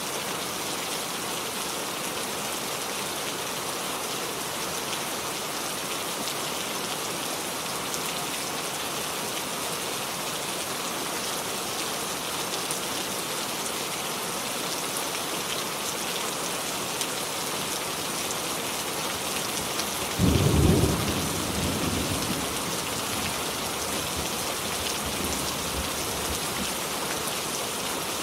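Steady rain falling, with one loud clap of thunder about twenty seconds in that rumbles away over a couple of seconds.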